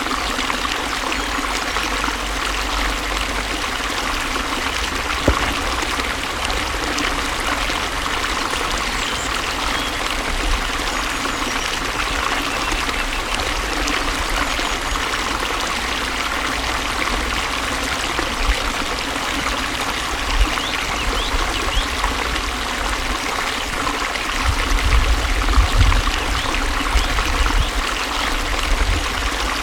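Flowing water: a stream running and trickling steadily, with low rumbling near the end.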